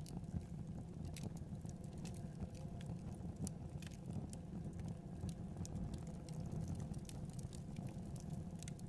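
Wood fire burning in a fireplace: a steady low rumble of the flames with irregular sharp crackles and pops, a couple a second.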